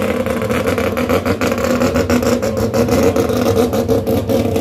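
Stock car engines running with a steady, loud drone.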